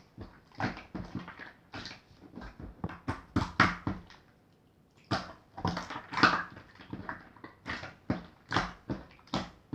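Clear water-jelly slime being squished and poked by hand, giving a string of irregular sticky clicks and squelching pops, with a brief pause a little past four seconds in.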